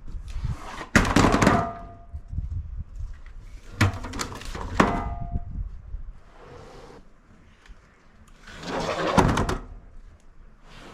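Four heavy thunks and knocks, spaced a few seconds apart: about a second in, twice around four to five seconds, and near the end. The first two ring briefly after the hit.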